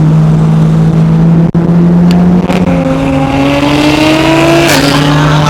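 Car engine accelerating, its pitch rising steadily for about two seconds and then dropping suddenly near the end, as at a gear change, over a steady low engine hum.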